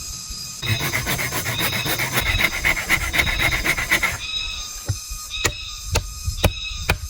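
Bamboo being worked with a hand tool: about three seconds of fast rasping strokes, then a string of sharp knocks roughly twice a second.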